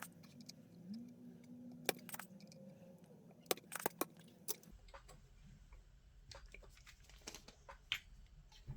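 Scattered light clicks and taps of small metal hand tools against a circuit board and bench, over a faint steady hum. The background changes abruptly about halfway through.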